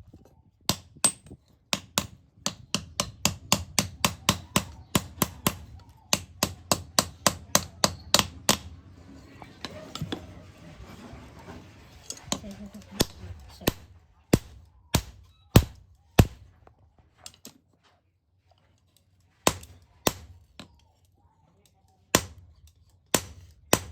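Hammer striking iron: a quick run of blows about three a second, then a few seconds of steady rasping noise, then slower single blows spaced a second or more apart.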